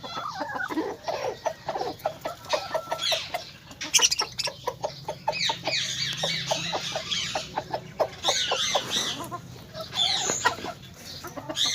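Many birds calling at once: a rapid run of short, clucking-like notes mixed with high twittering chirps, with a sharp loud call about four seconds in.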